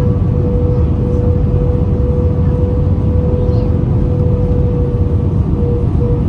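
Steady in-flight cabin drone of an Airbus A320-214 with CFM56 engines, heard from a window seat: a heavy, even rumble with a steady mid-pitched hum running through it.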